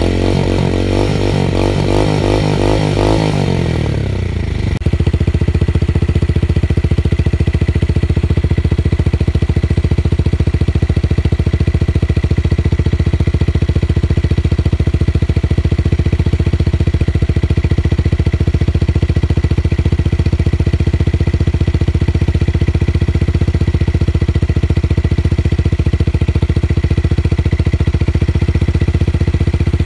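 Motorcycle with a tuned exhaust giving a deep bass note: the throttle is blipped, so the pitch swings up and down in the first few seconds. About five seconds in it changes abruptly to a steady low running note that holds.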